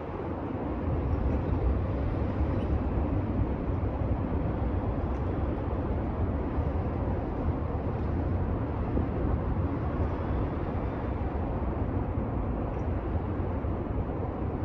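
Train running past, a steady low rumble without distinct wheel clicks.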